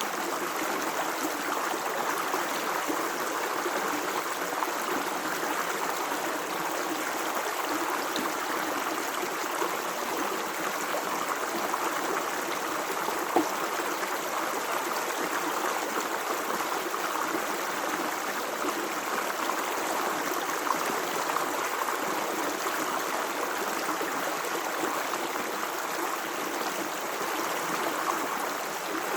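Running water flowing steadily in a natural stream, an even rushing sound with one brief click about halfway through.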